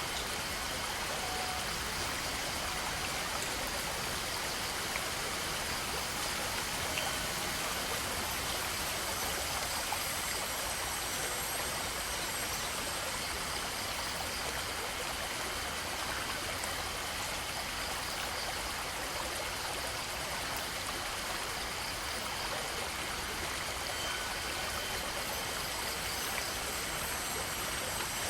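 A stream's water flowing steadily, an even rushing with no breaks or changes.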